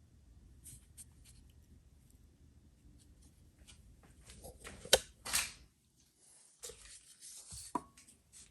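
Parts and tools of a headlight motor being handled during disassembly: a few faint ticks and rubs, then a sharp click about five seconds in, followed by a brief scrape, and another click near the end.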